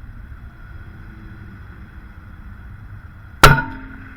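A single rimfire rifle shot about three and a half seconds in: one sharp crack with a short tail, over a steady low hiss.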